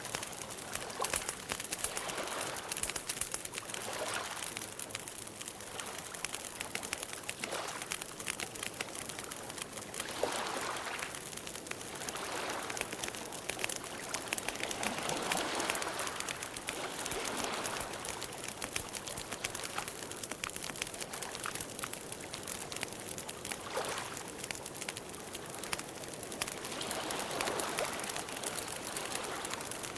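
Campfire burning, with a dense run of small crackles and pops over a steady hiss that swells and fades every few seconds.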